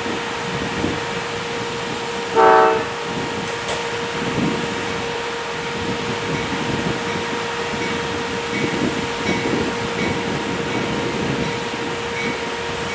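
Amtrak passenger train pulling into the station, rolling in over a steady hum, with one short horn blast about two and a half seconds in.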